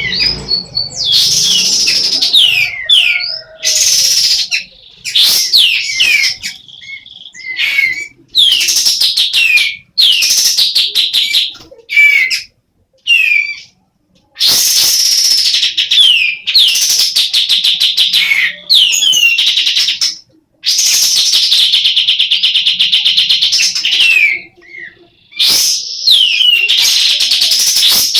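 A female kapas tembak calls over and over, in a state the keeper calls semi-breeding condition. The calls are loud, high-pitched phrases of sharp falling notes and longer rattling runs, broken by short pauses.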